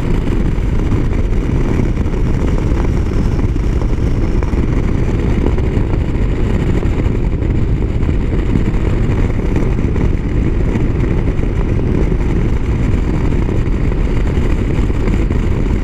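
Motorcycle riding along the highway: a steady, loud rush of wind on the rider's microphone with the engine's drone underneath, unchanging throughout.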